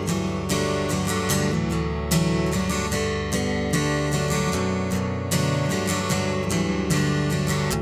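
Acoustic guitar strumming chords: the intro of a song, with regular strokes and no singing yet.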